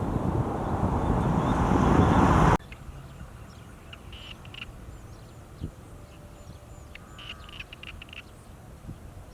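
A loud rushing noise that rises and then cuts off sharply about two and a half seconds in, followed by quiet countryside background with short bird calls in two clusters and a single soft knock.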